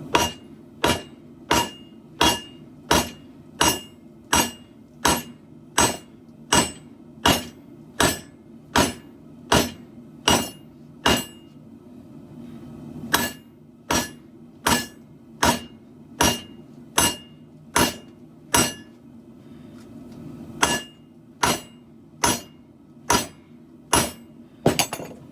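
Hand hammer striking katana blade steel on an anvil at an even pace of about three blows every two seconds, each blow ringing high. The hammering stops briefly twice, about halfway through and again later, and ends with a quick double blow.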